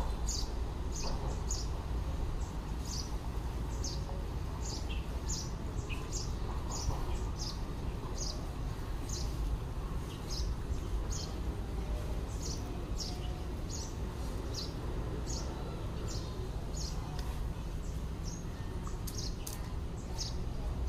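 A bird chirping over and over, short high single notes about two a second, over a steady low background rumble.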